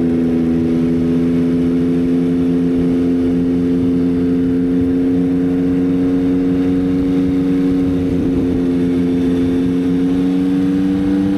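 Yamaha XSR900's three-cylinder engine running steadily at a cruise, its pitch rising slightly near the end.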